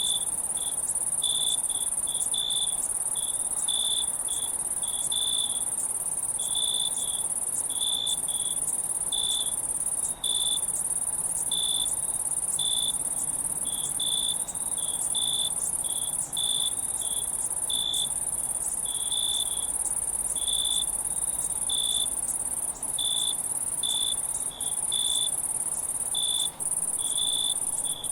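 Crickets and other insects: a steady, high-pitched trill with short, irregular cricket chirps at a lower pitch, several a second.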